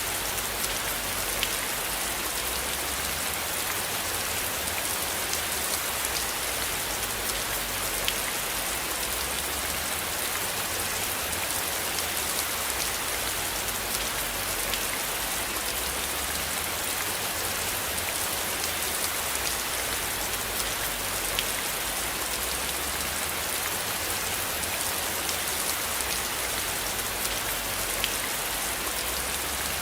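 Steady rain: an even hiss of rainfall with scattered individual drop ticks. A low rumble swells and fades underneath.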